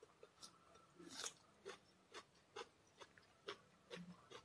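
Close-up eating sounds of a person chewing rice: soft, moist mouth clicks about twice a second, with a brief louder rustle about a second in.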